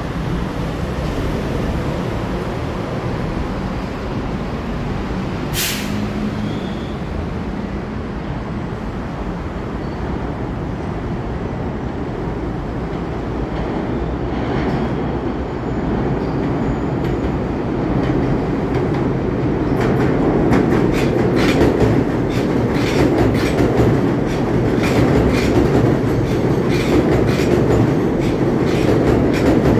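Long Island Rail Road M7 electric train approaching and running through an elevated station without stopping. Its rumble grows louder from about two-thirds of the way in, and then come rapid clickety-clack clicks as the wheels cross rail joints while the cars pass.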